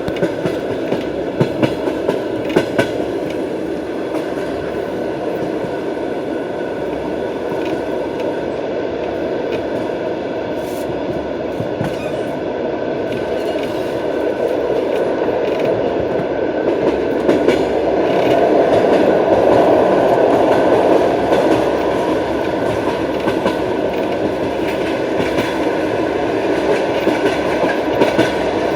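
Russian Railways long-distance passenger train's wheels running on the rails: a steady rumble with sharp clacks of the wheels over rail joints. The clacks come in clusters near the start and again near the end, and the rumble grows louder about two-thirds of the way through.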